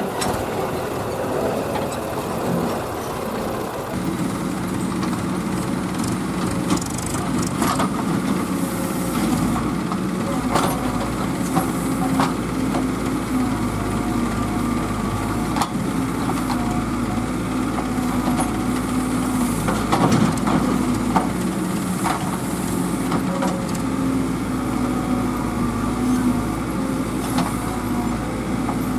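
Diesel engine of heavy farm machinery running steadily, its pitch shifting now and then, with scattered sharp knocks and clanks.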